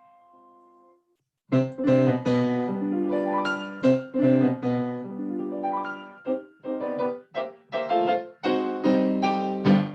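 Piano playing a flowing passage, picked up by a USB condenser microphone and passed through Zoom's audio processing. The sound cuts to dead silence for a moment about a second in and drops out briefly between some later phrases, the kind of gating Zoom's noise suppression does when 'original sound' is off.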